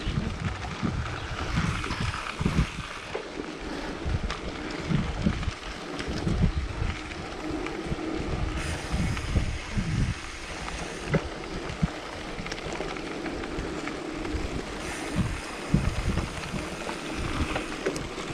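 Wind buffeting the microphone, with uneven low gusts over a steady rush of air, while riding a mountain bike into a headwind.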